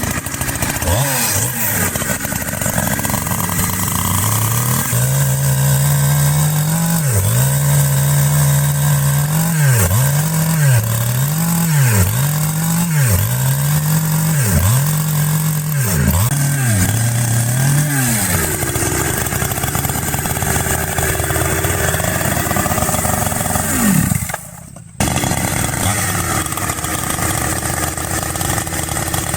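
Chainsaw running at high revs while cutting into tree roots at a stump. Its pitch dips and recovers about once a second through the middle of the stretch, with a short break near the end.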